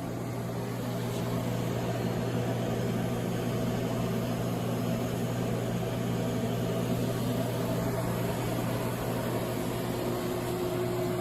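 Robotic pulsed MIG welding in progress: a steady electrical hum with an even hiss over it.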